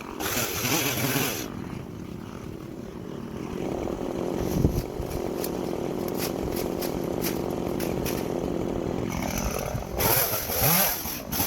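Stihl chainsaw running at speed, steady through the middle. Bursts of loud rushing noise come in the first second or so and again near the end.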